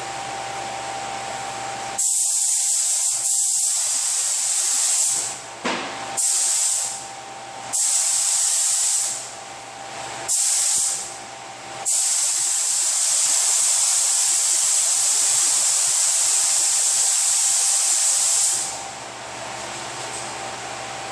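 Automotive paint spray gun spraying sealer in five hissing passes: three seconds of spraying about two seconds in, three short passes, then one long pass of about six and a half seconds. A steady air-noise hum runs underneath.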